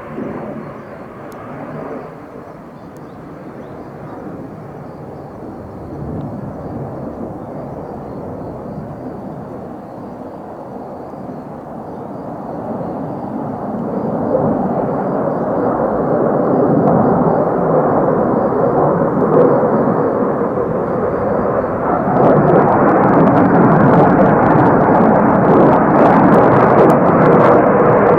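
Jet aircraft engine noise, a steady rushing sound that grows much louder from about halfway through and stays loud to the end as the jet draws nearer.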